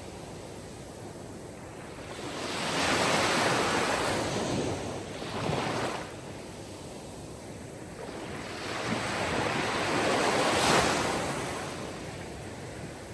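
Sea waves washing onto a shore, surging twice: once about three seconds in and again, louder, about ten seconds in, then ebbing.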